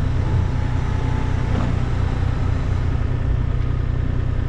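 Engine of heavy earthmoving equipment running steadily at a constant speed, a low even drone.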